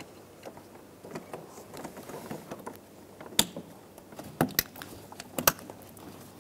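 Plastic electrical connectors on a car door's wiring harness being handled and pushed together, with several sharp clicks as they latch, mostly in the second half.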